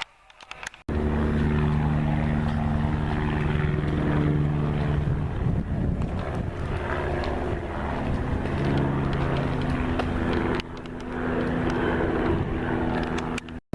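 A propeller aircraft's piston engine running steadily, with a fast pulsing beat under it. It starts abruptly about a second in and cuts off just before the end.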